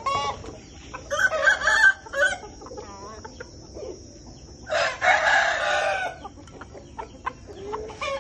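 Aseel rooster (Amra cross) crowing twice, about a second in and again near five seconds in, with softer clucking between. A steady high whine runs underneath.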